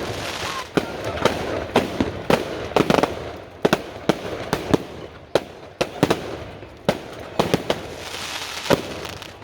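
Fireworks going off: a rapid, irregular series of sharp bangs, about two a second, over a continuous crackle.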